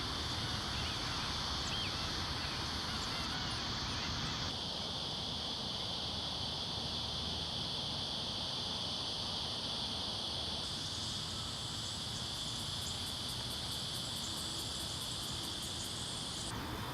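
Wetland field ambience dominated by a steady high insect drone, with a few faint bird calls in the first few seconds. In the second half comes a fast run of faint high ticks. The background shifts abruptly twice.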